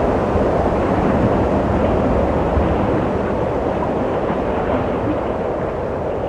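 Wind blowing steadily as a deep rushing noise, swelling a little about a second in.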